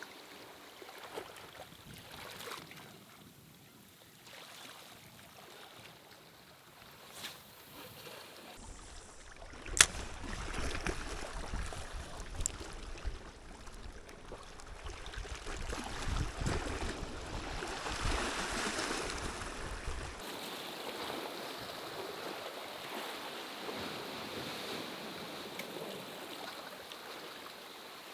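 Seashore ambience of surf washing over rocks, with wind rumbling on the microphone through the middle stretch and a sharp click about ten seconds in; an even hiss of water and rain near the end.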